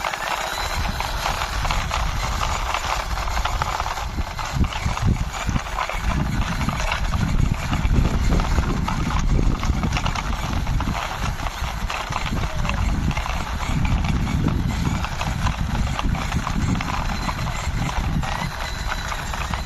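Plastic toy mixer truck pushed along by hand, its wheels rolling with a continuous gritty clatter of fine clicks; a low rumble joins about six seconds in.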